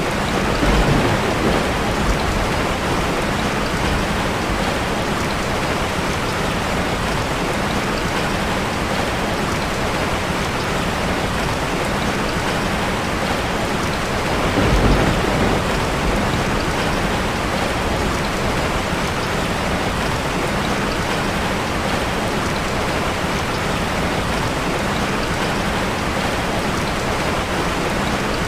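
Steady rain falling, an even rushing hiss. Two brief low rumbles come through, about a second in and again about halfway.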